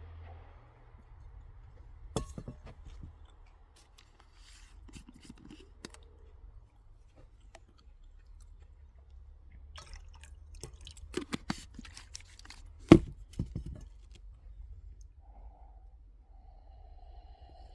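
Scattered clicks and knocks of objects being handled, a cluster of them in the second half with one sharp knock the loudest, over a faint low rumble.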